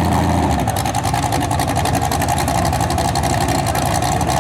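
Mini rod pulling tractor's engine running hard at a steady high pitch, loud and unbroken during a pull.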